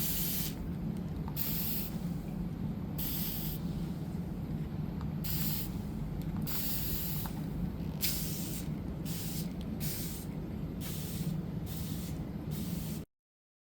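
Fine-mist spray bottle spritzing water in a dozen or so separate hissing bursts of varying length, wetting tissue paper on model airplane wings so that it will shrink tight. A steady low hum sits underneath, and the sound cuts off suddenly near the end.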